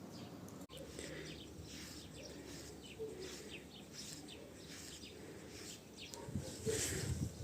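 Small birds chirping, many short high chirps in quick succession, with a few low thumps near the end.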